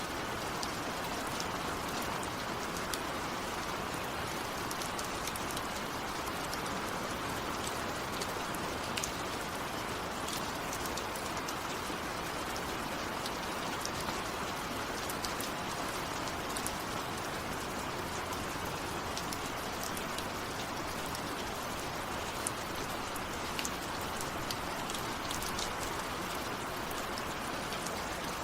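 Steady rain falling, with individual drops ticking sharply here and there against the even hiss.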